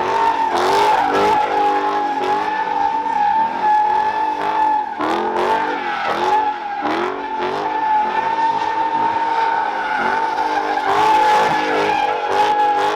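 A car doing burnouts or donuts: tires squealing in one steady high tone while the engine revs up and down over and over.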